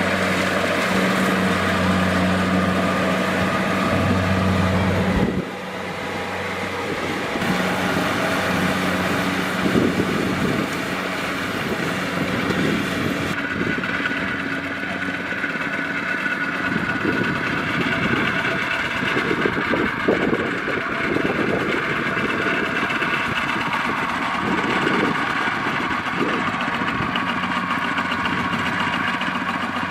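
Kubota DC-70 Plus combine harvester running steadily in the field. About five seconds in the sound changes abruptly: the low engine hum drops away, and a busier machine sound with rattling follows.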